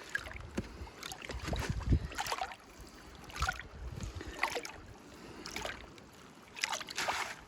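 Water sloshing in a gold pan as it is shaken and swirled, in irregular swishes about once a second.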